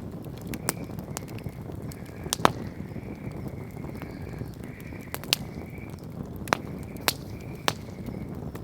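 Wood campfire burning: a steady low rush with sharp crackles and pops, the loudest pop about two and a half seconds in.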